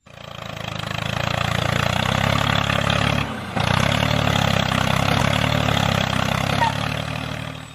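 Tractor engine running with a steady low chug, dropping out briefly about three seconds in, then running on and fading near the end.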